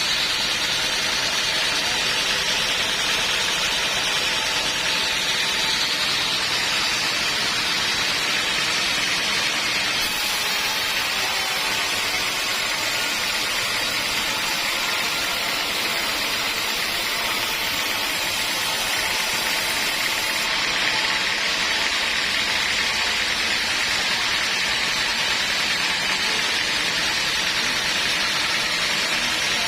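Homemade band sawmill running steadily through a teak log, a continuous saw noise with a brighter hiss for about ten seconds midway.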